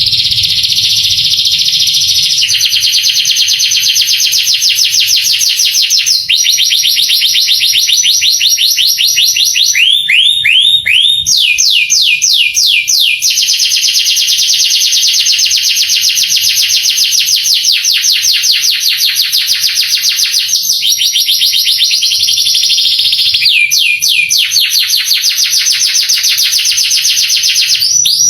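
Male domestic canary singing a long, unbroken song of rapid rolled trills, switching to a new phrase every few seconds, with a few slower sweeping notes in between.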